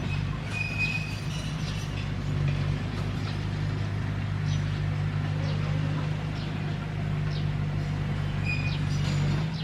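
Komatsu D21P bulldozer's diesel engine running steadily at a constant pitch, with scattered faint short high squeaks over it.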